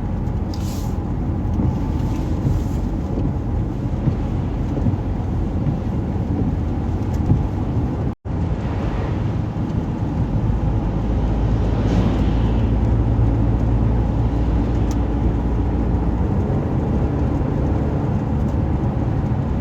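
A car driving along: steady low road and engine rumble. The sound cuts out for a split second about eight seconds in.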